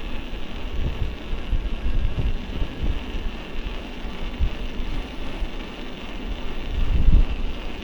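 Gusty wind buffeting the microphone, with a steady rushing hiss underneath. The strongest gust comes about seven seconds in.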